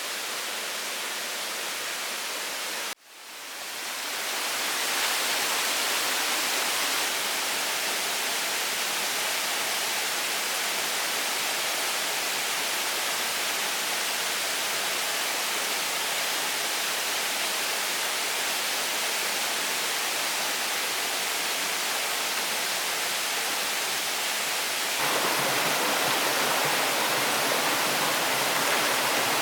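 Steady, even rushing noise, like running water or rain, with no distinct events. It cuts out briefly about three seconds in and fades back up, then gets a little louder near the end.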